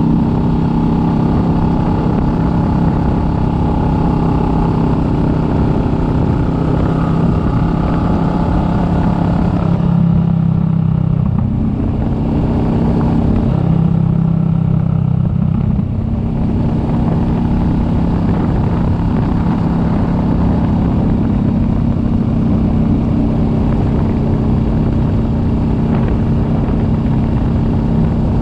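Kawasaki Vulcan S 650's parallel-twin engine running on the move, with wind rush over it. About ten seconds in, the engine note shifts and the wind noise drops away twice for a few seconds before both settle back to a steady run.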